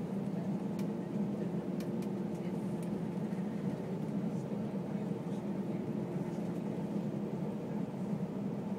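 Steady cabin noise inside an Airbus A320 on the ground after landing: a constant low hum of engines and air-conditioning with a couple of steady tones in it, and a few faint clicks in the first two seconds.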